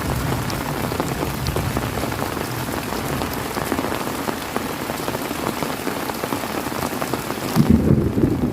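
Heavy rain falling steadily, a dense hiss made of countless pattering drops. Near the end the hiss thins out and a louder, deeper rumble sets in.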